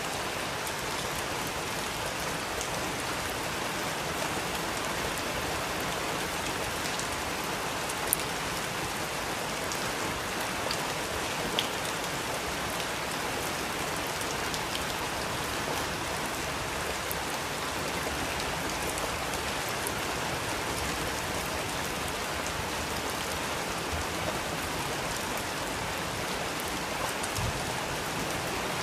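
Steady rainfall: an even hiss of rain with occasional louder single drops ticking, two of them clearest about 8 and 11 seconds in.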